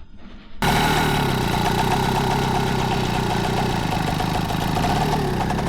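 Peugeot 102 moped's small two-stroke engine running steadily, starting abruptly about half a second in.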